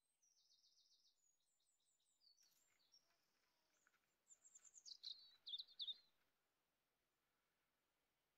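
Faint songbirds chirping in short, high trills, with a louder burst of quick descending notes between about four and six seconds in.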